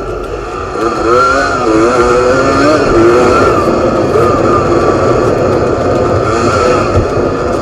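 Enduro dirt bike engine revving up and down while riding, getting louder about a second in, its pitch rising and falling repeatedly over a constant low rumble.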